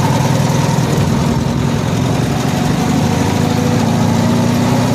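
1974 Cushman Truckster utility vehicle's small engine running steadily at idle with even, rapid firing pulses. The owner hears valve noise despite having adjusted the valves.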